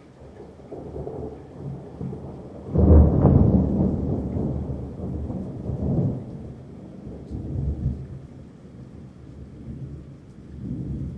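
Thunder: a sudden loud crack about three seconds in, rumbling on in rolling waves that swell again several times.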